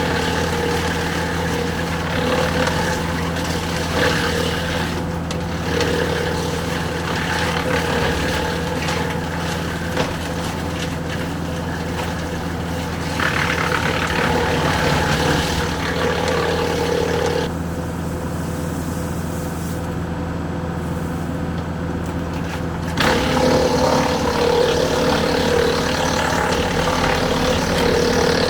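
Kubota L4060 diesel tractor running a Woodland Mills WC68 PTO wood chipper, with a steady engine drone under a rushing, grinding noise. The higher rushing noise drops away for about five seconds past the middle and then comes back louder.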